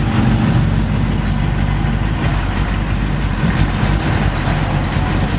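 A car's engine running with a steady low rumble as the car pulls out onto a road, heard from inside the cabin.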